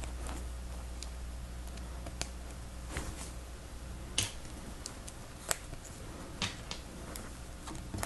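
Lego Technic plastic pieces clicking and snapping as they are handled and pressed together, irregular sharp clicks with the loudest about four and five and a half seconds in, over a steady low hum.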